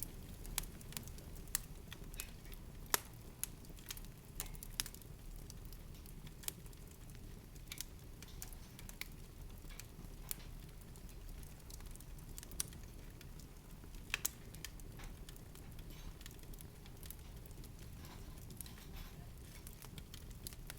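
Irregular sharp crackles and ticks over a low steady rumble, with the loudest snaps about three seconds in and again about fourteen seconds in.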